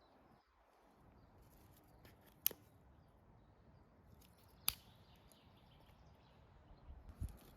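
Faint steady background noise broken by two sharp single clicks about two seconds apart.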